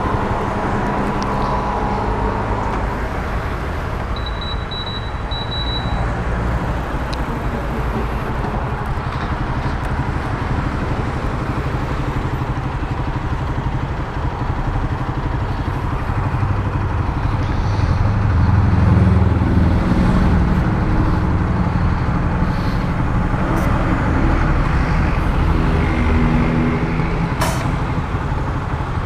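Honda CG Titan 150's single-cylinder four-stroke engine running through an aftermarket Turuna exhaust, its note shifting up and down in pitch and loudest a little past halfway.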